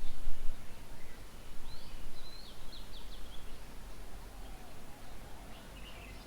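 Outdoor ambience with a bird calling: a quick run of high chirps about two seconds in, over a steady low rumble.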